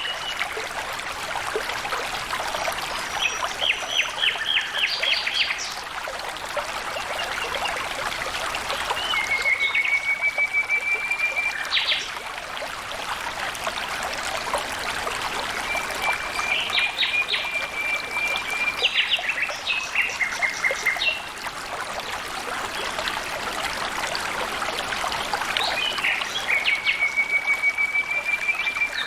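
Water trickling and splashing steadily, with a songbird repeating a phrase of rapid notes and a level trill about three times, every eight to ten seconds.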